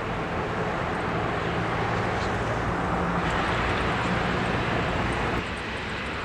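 Jet airliner engines running with a steady rushing roar and a low hum underneath; the level drops suddenly about five seconds in.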